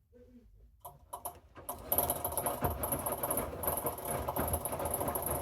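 A few clicks, then from about two seconds in the steady running noise of a Hoover inverter washing machine partway through its wash.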